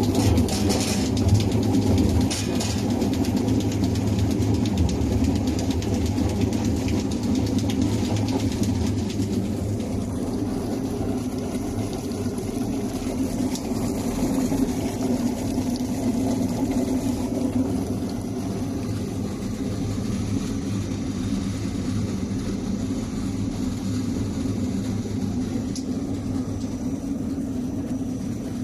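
Sweet potato washing and peeling machine running, with a steady low hum and a continuous rattling rumble.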